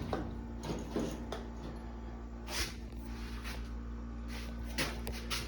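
Scattered light knocks and clicks of handling over a steady low hum, a few separate taps spread through the stretch.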